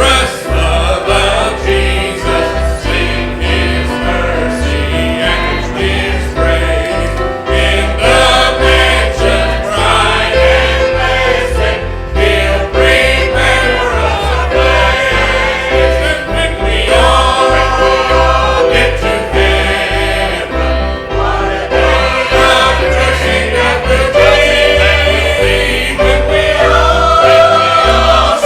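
Voices singing a gospel hymn together, choir-style, over a steady instrumental accompaniment.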